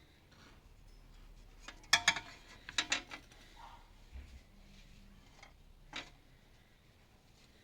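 Metal clinking as tools or parts are handled: a quick cluster of sharp clinks about two seconds in, a few more a second later, and one lighter knock near the end.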